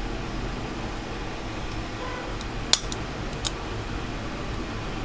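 Steady fan-like whir with a low hum on a repair bench. Two sharp clicks, typical of small metal tools, come a little past halfway, the first the louder.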